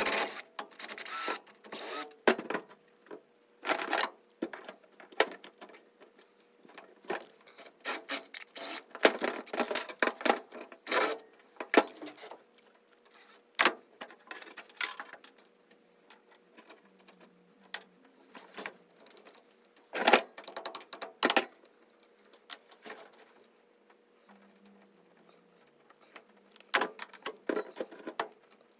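Metal hand tools working bolts: spurts of rapid ratchet-wrench clicking mixed with clinks and clatters of metal, with pauses between. A faint steady hum sits underneath.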